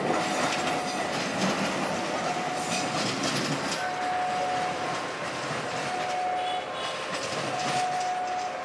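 Passenger train rolling away over the rails and points, wheels clattering. A thin steady tone comes and goes every second or two.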